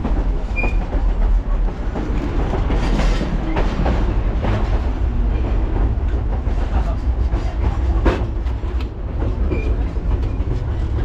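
Durango & Silverton narrow-gauge train cars rolling along the track: a steady low rumble with clicks and clatter from the wheels and rail joints, and two brief high squeaks, one near the start and one near the end.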